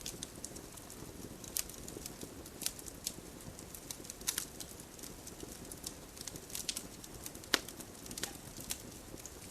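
Campfire crackling: irregular sharp pops and snaps over a low steady rumble, one pop standing out about seven and a half seconds in.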